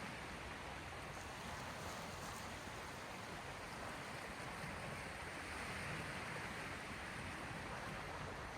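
Small sea waves washing steadily on the shore, an even wash that swells slightly about five to six seconds in.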